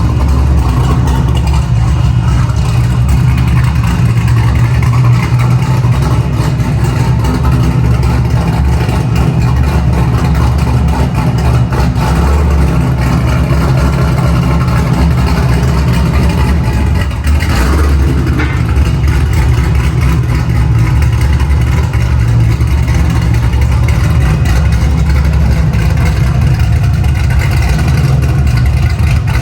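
Cammed 427 LSX V8 running through 3-inch straight pipes, a loud, steady low exhaust drone heard from inside the car while driving, with a brief change in pitch about two-thirds of the way through.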